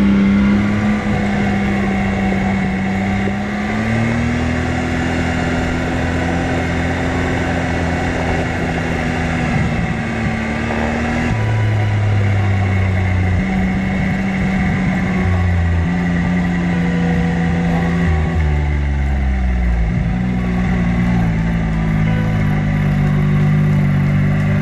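Off-road vehicle engine running under way on a gravel trail, its pitch stepping and gliding up and down with speed, over a steady rush of wind and tyre noise.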